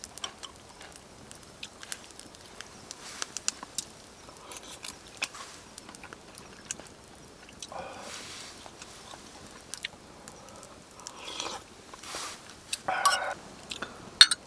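A person eating up close, biting and chewing crunchy food, with many sharp crunches and clicks.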